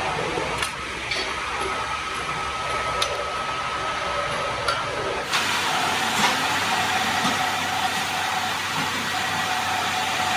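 Workshop machinery running with a steady whine and a hiss of noise, with a few sharp clicks. The sound changes abruptly a little past halfway, and the whine drops to a lower pitch.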